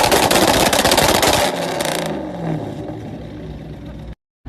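Loud vehicle noise full of clattering and scraping that eases off after about a second and a half, then quieter road noise.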